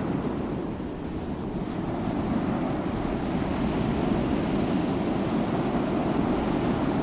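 Sea waves washing on the shore in a steady rush, rising and falling gently, with some wind on the microphone.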